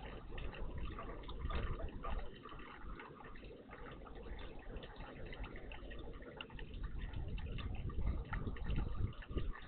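Water dripping and splashing in a garden bird bath, a scatter of small irregular drips and patters over a continuous low rumble.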